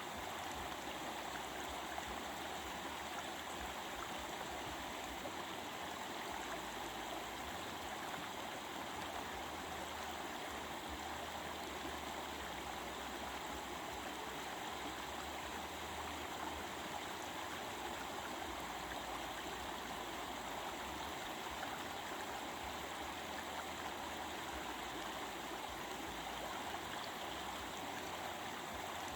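A stream of water flowing and babbling steadily.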